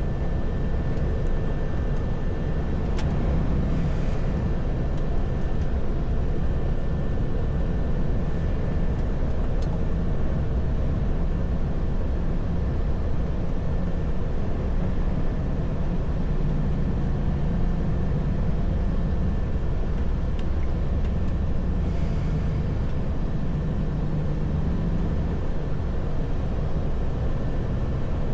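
Heavy truck driving at a steady speed: a constant low engine and road drone with a faint steady high whine.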